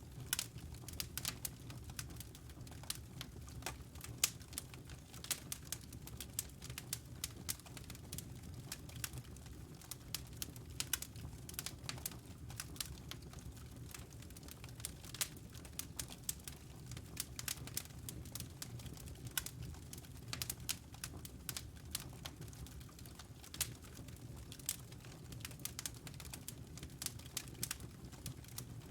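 Wood logs burning in a fireplace, crackling with irregular sharp pops several times a second over a low steady rumble.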